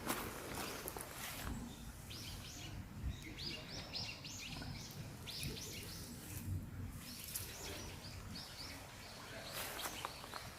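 Small songbird calling repeatedly: short high chirps in quick runs of several notes, stopping about eight seconds in, over a faint low background rumble.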